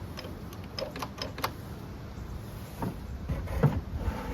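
Clicks and taps of tools and parts being handled on a leaf blower that is being taken apart, with a few louder knocks near the end.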